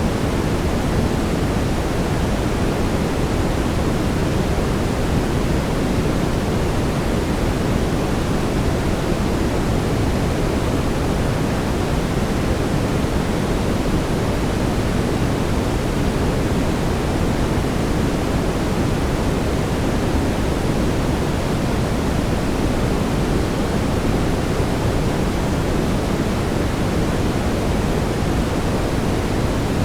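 Steady brown noise: an even, unbroken hiss, strongest in the bass and thinning toward the treble.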